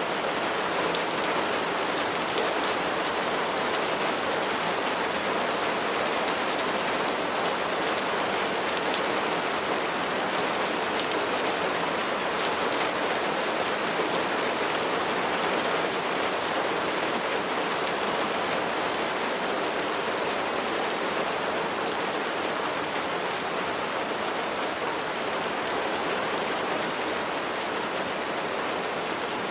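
Steady rain falling on a surface, a dense even patter with fine individual drop ticks through it.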